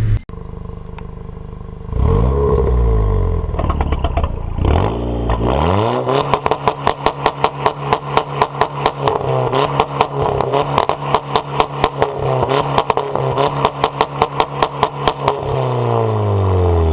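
Volkswagen Golf R MK6's turbocharged four-cylinder through an aftermarket ARMYTRIX exhaust, revved up twice and then held at a steady high rpm with rapid, evenly spaced bangs, about four or five a second, like a rev limiter or launch-control hold. Near the end the revs drop and fall away.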